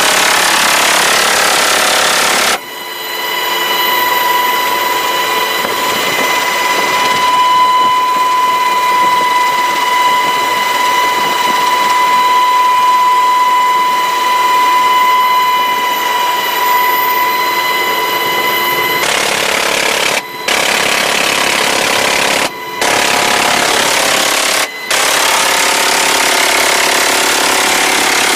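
Loud Sikorsky HH-60 Pave Hawk helicopter noise: a dense mechanical clatter with a steady high whine, strongest for the middle stretch. The sound changes abruptly at several edit cuts.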